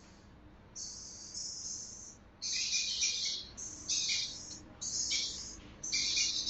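Red parrots calling in a series of shrill, high-pitched chirping bursts. There are about five, coming roughly once a second, and they begin about a second in.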